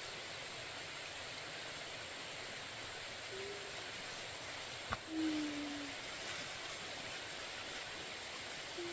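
A sharp click just before five seconds in, then a low hooting call, one note falling slightly in pitch, over a steady outdoor hiss. A fainter, shorter hoot comes about three seconds in.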